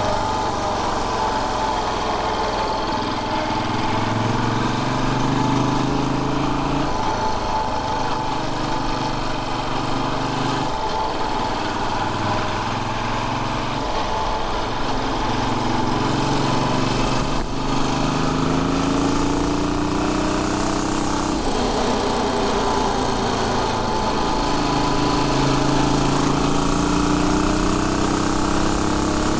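Royal Enfield Bullet 500's air-cooled single-cylinder four-stroke engine running under way. Its note rises with acceleration and drops back at several gear changes, climbing steadily again near the end.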